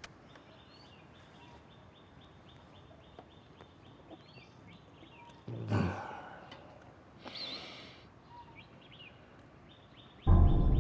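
Quiet outdoor background with scattered small bird chirps and a faint rapid ticking. There are two short noisy bursts around the middle, then loud, deep music comes in suddenly near the end.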